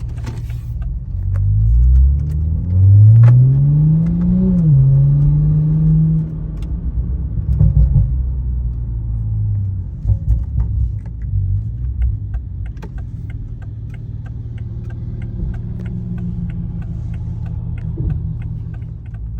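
Toyota A90 Supra's turbocharged 3.0-litre inline-six through a Leviathan turbo-back exhaust, rising in pitch as the car pulls away, dropping sharply at a gear change about four and a half seconds in, then settling to a low rumble at low revs. A light regular ticking runs through the second half.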